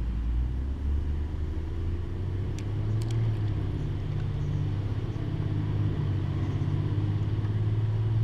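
A motor engine running steadily, its pitch rising about half a second in and then holding, with a few faint clicks about three seconds in.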